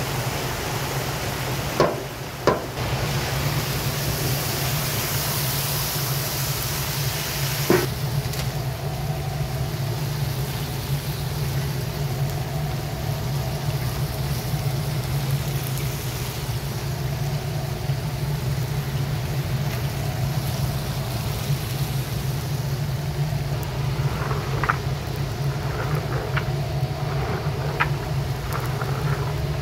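Carrots and onions simmering and sizzling in oil in a cast-iron kazan, over a steady low drone. Two sharp knocks come about two seconds in and another near eight seconds, and light clicks come near the end.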